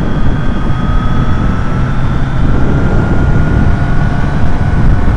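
Motorcycle riding at road speed, heard from the rider's own camera: a loud, steady rush of engine and wind, with a faint whine that rises slowly in pitch.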